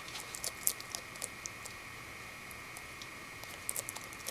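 Bearded dragon chewing mealworms: small crisp crunching clicks, a cluster in the first second and a half and another near the end.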